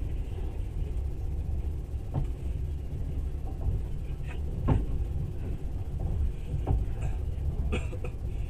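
Steady low rumble of a passenger train running, heard from inside the carriage, with a few sharp knocks and clicks scattered through it, the loudest about halfway.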